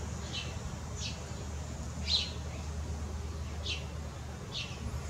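A bird chirping outdoors: five short, downward-sliding chirps about a second apart, the loudest about two seconds in, over a low steady hum.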